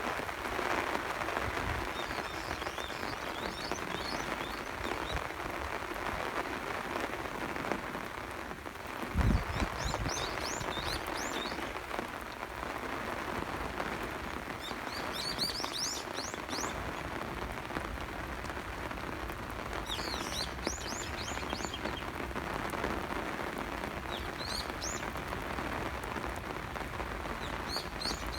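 Steady rain pattering on surfaces, with small birds chirping in short runs of quick rising notes several times. A single low thump stands out about nine seconds in.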